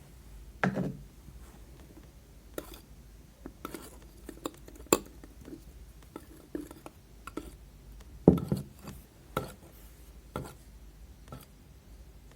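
Soap slime being mixed and handled in a bowl, with irregular sticky clicks and light taps, and two louder thumps, one about a second in and one about eight seconds in.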